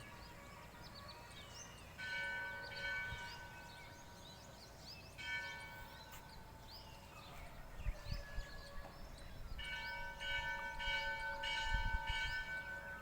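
A bell ringing in struck strokes: a stroke about 2 s in, another about 5 s in, then a run of repeated strokes from about 10 s to the end, each note ringing on.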